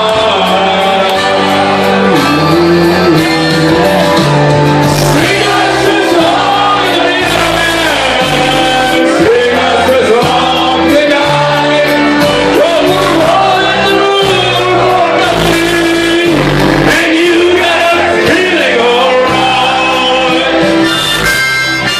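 Loud live band music with a singer belting the melody over bass, guitar and drums, ringing in a large room.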